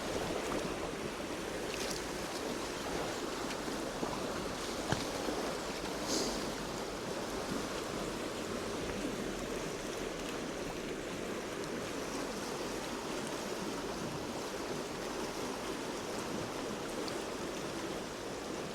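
Stream water flowing and splashing steadily, with a few faint clicks in the first few seconds.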